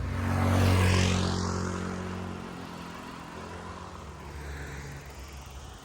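Motor vehicle engine passing by, a low hum that is loudest about a second in and then fades away.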